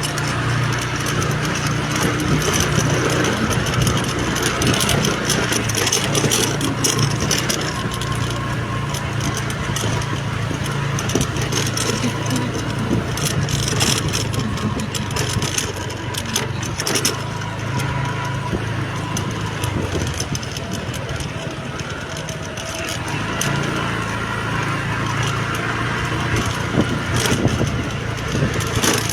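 A vehicle travelling along a road: an engine's steady low hum under constant road and wind noise, with scattered brief crackles.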